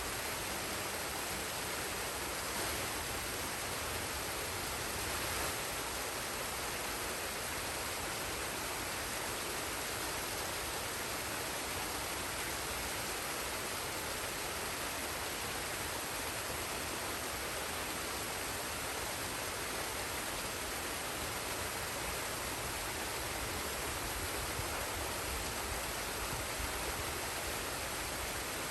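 Forest waterfall and stream: water rushing and splashing as a steady, even wash of sound with no changes.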